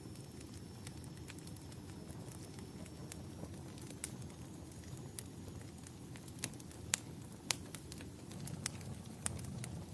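Wood fire crackling in a fireplace: irregular sharp pops and snaps over a steady low rumble, the pops coming thicker and louder in the second half.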